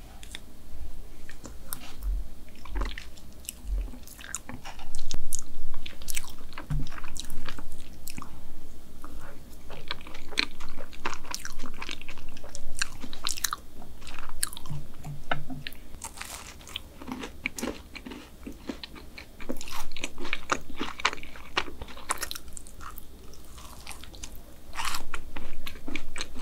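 Close-miked eating sounds: biting into and chewing chocolate chip brownie topped with black sesame ice cream, with irregular soft crunches and mouth clicks.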